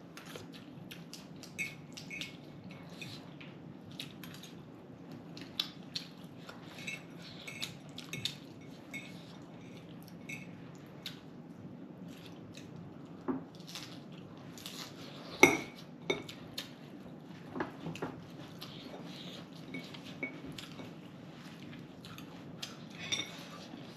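Light, scattered clinks and taps of dishes and cutlery during a meal, with one sharper knock about fifteen seconds in, over a faint steady room hum.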